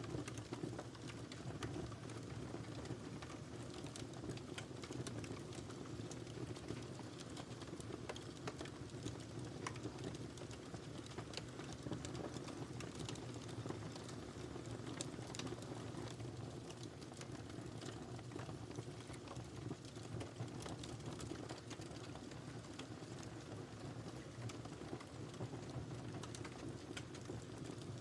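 Wood fire burning steadily in a fireplace, with many small sharp crackles and pops over a constant low rumble of flames.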